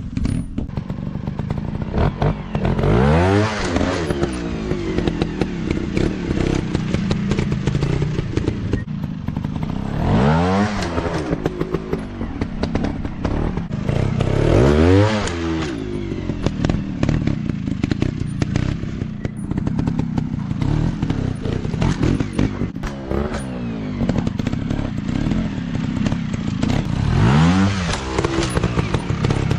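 Dirt bike engines running, revving up sharply and dropping back about four times, with rattling clatter between the revs.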